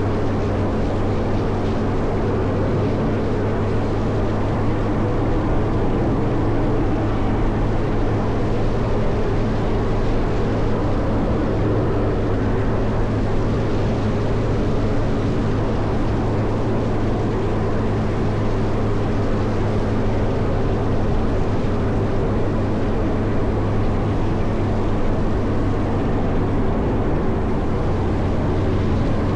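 Caterpillar 140M motor grader's diesel engine running steadily under load, with a constant low hum and a dense mechanical drone, while it clears snow.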